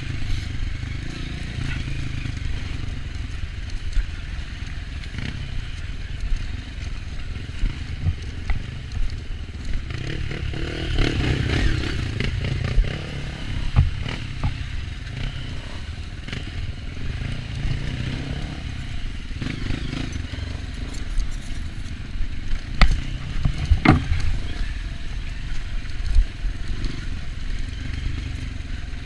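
Off-road motorcycle engine running continuously, with scattered knocks and rattles as the bike rides over rough trail; a louder stretch comes about a third of the way in, and two sharp knocks come near the end.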